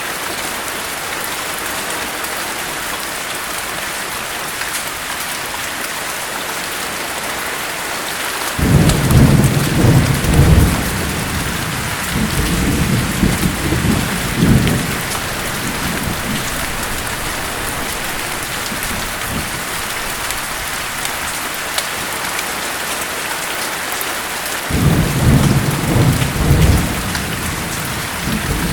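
Steady heavy rain hiss with two rolls of thunder. The first starts suddenly about a third of the way in and rumbles in several swells for about six seconds. The second starts near the end.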